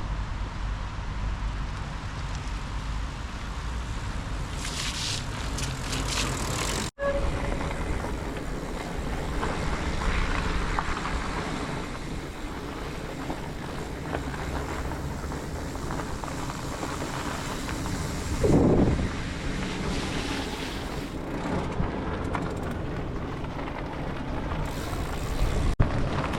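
Riding noise from a moving bicycle: wind rumbling on the microphone over steady tyre and path noise, with a brief dropout about seven seconds in.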